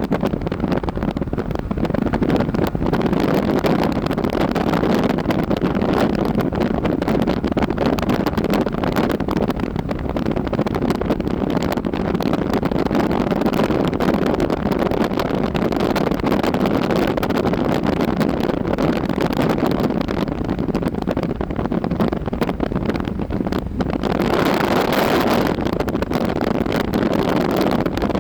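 Wind blowing steadily, a low, even rushing noise. A stronger gust near the end adds more hiss for a few seconds.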